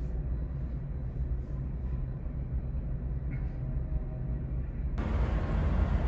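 Low, steady rumble of an idling vehicle engine. About five seconds in, a louder rushing noise cuts in abruptly on top of it.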